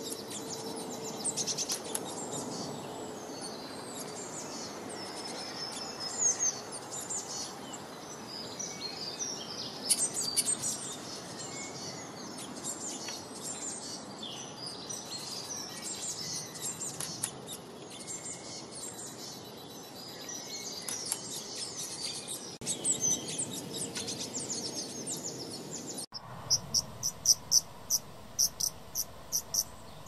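Many small birds chirping and twittering, short high calls overlapping over a steady background hiss. Near the end, after a cut, one sharp chirp repeats evenly, about two a second.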